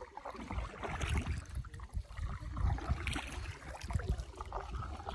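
Paddling a canoe: water splashing, gurgling and dripping around the paddle and hull, with uneven low thuds.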